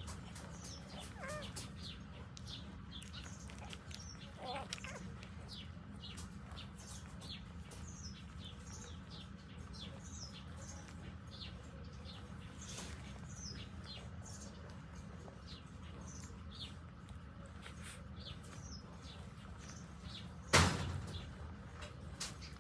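Many short, high chirps of small birds, repeated all through over a steady low hum, with one sudden loud knock near the end.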